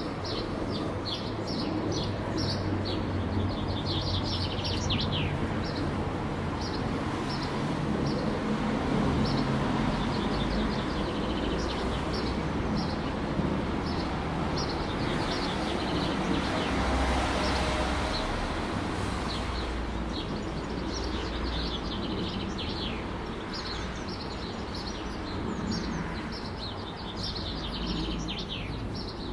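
Small songbirds chirping in quick runs of short, high notes, thickest in the first few seconds and again near the end, over a steady low rumble of city traffic.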